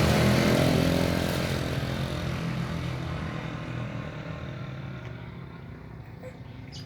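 A motor vehicle's engine running and fading steadily away as it moves off.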